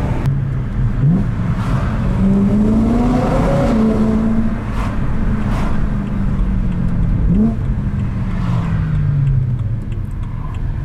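BMW M3's S65 V8 engine heard from inside the cabin, climbing in revs for the first few seconds, then easing off as the car slows. A quick throttle blip comes about a second in and another near the middle of the slowdown.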